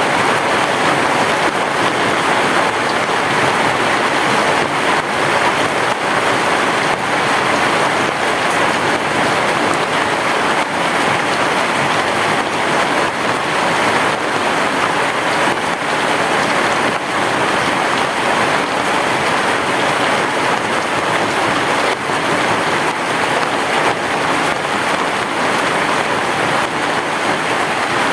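Heavy rain falling steadily, a dense even hiss of rain with fine drop patter and no let-up.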